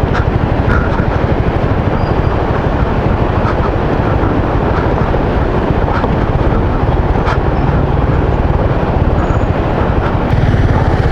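Motorcycle engine running steadily while riding a rough, rocky dirt road, with a few sharp knocks from the rough ground; the engine gets louder near the end.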